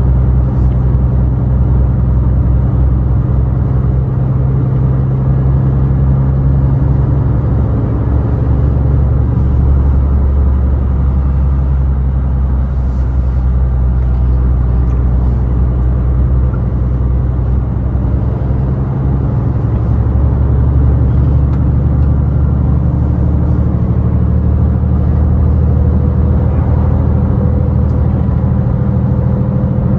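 Scania heavy truck's diesel engine running at highway cruise, a steady low drone with road noise; the engine note shifts slightly a few times.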